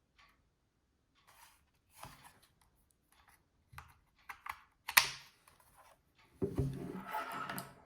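Handling noises: scattered light clicks, taps and rustles of small hard objects being handled, with one sharp click about five seconds in and a longer rubbing, scraping stretch near the end.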